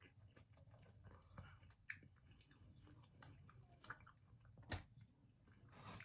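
A person chewing food with the mouth close to the microphone: faint, with scattered small wet clicks of the lips and teeth, the sharpest one a little before five seconds in.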